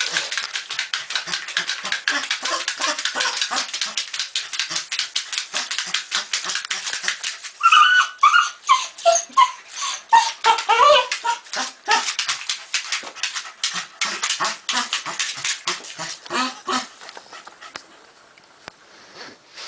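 Dog whining and yipping excitedly over a rapid run of short sharp sounds, several a second. High whines stand out in the middle, and it quietens near the end.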